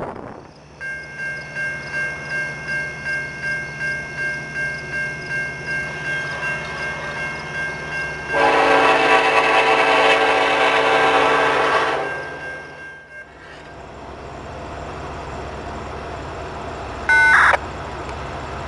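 A grade-crossing bell rings steadily, pulsing about twice a second. Then a diesel locomotive's horn sounds one long chord lasting about four seconds. Near the end, after a break, the horn gives a short blast.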